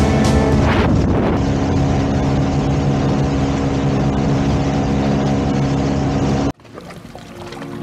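Speedboat engine running steadily under a loud rush of wind and water, cut off abruptly near the end.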